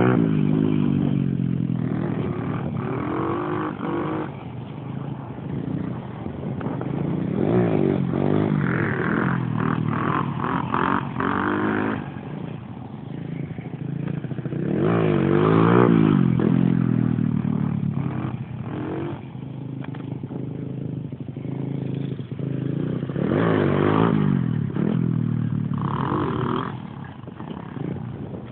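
Dirt bike engine revving as it is ridden, its pitch climbing and dropping again and again as the rider opens and closes the throttle. It grows louder and fades several times and is loudest about halfway through.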